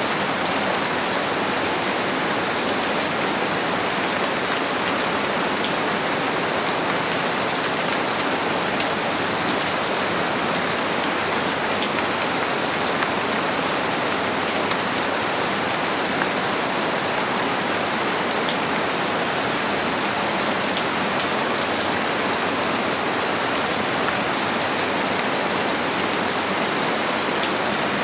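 Steady rain falling, a dense even patter of many small drops, with no thunder.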